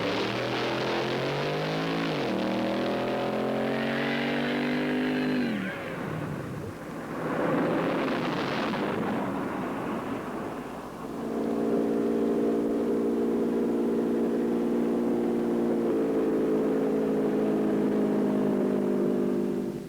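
Dodge 426 Hemi V8 in a drag-racing pickup, revving as it launches, its pitch climbing for about five seconds. A rushing noise follows, then the engine holds a steady note for the last nine seconds or so.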